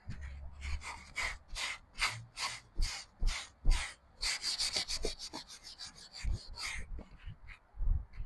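Back-and-forth hand rubbing strokes on a leather car seat, about three a second, quickening for a while around the middle and stopping about a second and a half before the end.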